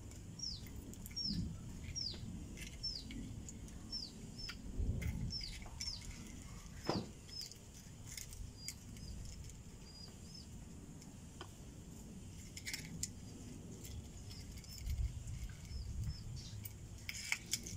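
A bird repeating short, high, downward-sliding chirps, about two a second at first and more sparsely later, with a few sharp clicks and taps from a spoon working the shell of a soft-boiled egg.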